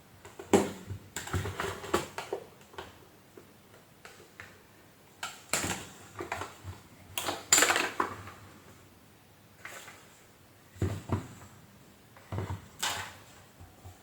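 Irregular clicks, knocks and rattles of hard plastic and metal vacuum cleaner parts being handled and taken apart by hand, in several short clusters.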